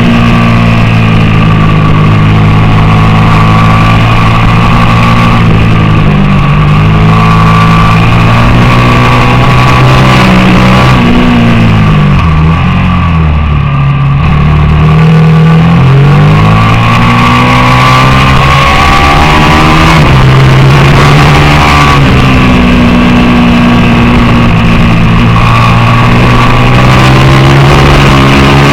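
Racing motorcycle engine at high revs, with pitch steps as it shifts gear. About halfway through it drops off as the bike slows, then revs back up hard.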